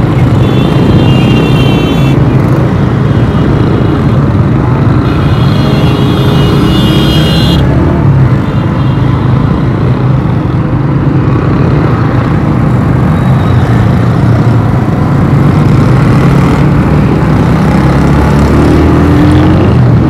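Motorcycle running steadily in city traffic, with road and wind noise. Two high-pitched tones of a couple of seconds each sound, about a second in and again around five to seven seconds in.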